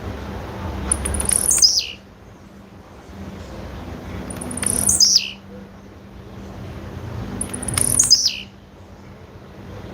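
Blue-black grassquit (tiziu) calls, given by the title as the female's call. Three identical calls about three seconds apart, each a high note sliding sharply downward. A background rush swells before each call and falls away after it.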